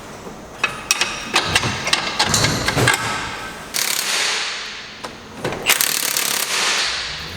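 Wheel lug nuts being worked with a wrench in a car shop. First come sharp ratcheting clicks and metal rattles, then two louder bursts of about a second each, typical of an impact wrench running the nuts on.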